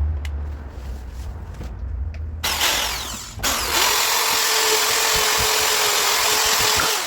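A handheld electric power tool starts about two and a half seconds in, comes up to full speed about a second later, runs steadily, and cuts off abruptly just before the end.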